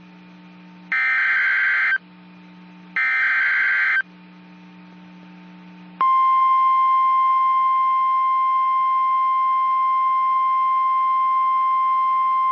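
NOAA Weather Radio alert signal: the screeching digital SAME header bursts, two of them about a second long with a second between, then after a short gap the steady 1050 Hz warning alarm tone sounding about six seconds in and holding. Together they mark the start of a warning broadcast.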